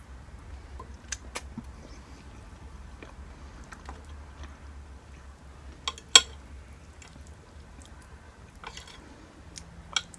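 Close-miked eating sounds of someone chewing a mouthful of food, with scattered sharp clicks, the loudest about six seconds in, over a low steady hum.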